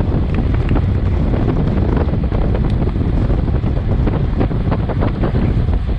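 Wind buffeting the microphone of a Garmin VIRB action camera on a bicycle at racing speed, a loud, steady rumble with many short clicks and knocks.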